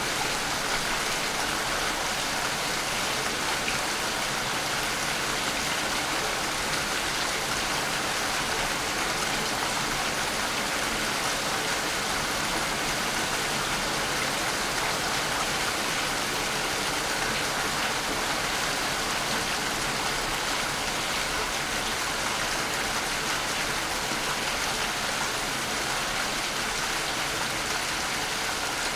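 Rain falling steadily, an even unbroken hiss of drops on surfaces.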